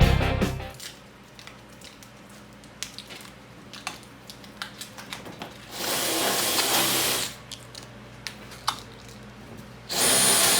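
A small power tool runs in two short bursts, about a second and a half at around six seconds in and a second near the end, the second with a thin high whine. Light clicks and knocks of handling parts come between the bursts.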